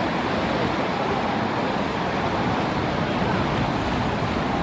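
Steady rushing noise of ocean surf and wind at the shore, even and unbroken, with no distinct calls or impacts.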